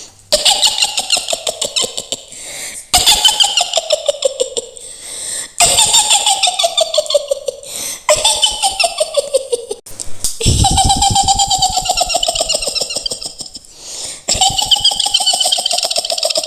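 A witch's high-pitched cackling laugh in a woman's voice. It comes as about six runs of rapid "hi-hi-hi" pulses, each falling in pitch.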